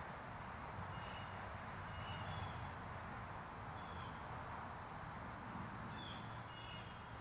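A bird chirping: short high calls in small clusters, a second or two apart, over a steady background hiss and low hum.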